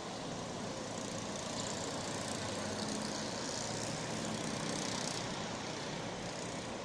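Steady rushing outdoor noise at a constant level, with a faint low hum in the middle.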